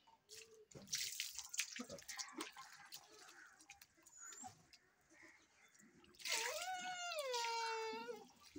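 Water splashing and dripping in short irregular bursts. About six seconds in comes a drawn-out, high-pitched cry lasting about two seconds: it dips, rises, then holds steady.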